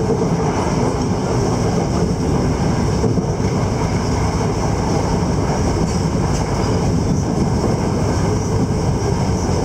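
Steady rumble of a moving passenger train, heard from inside the carriage.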